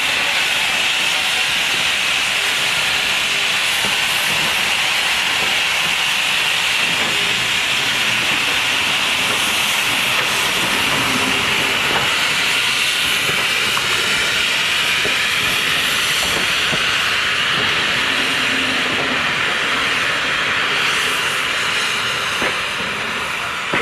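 Steam locomotive letting off steam: a loud, steady hiss that holds without a break.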